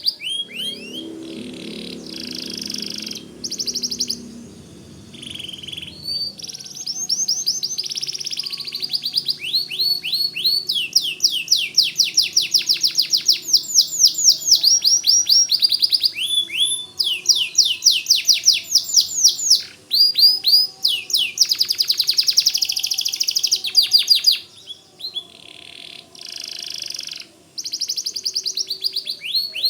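White domestic canary singing vigorously: long rapid trills of high, down-slurred notes repeated several times a second, run together in phrases and broken by brief pauses.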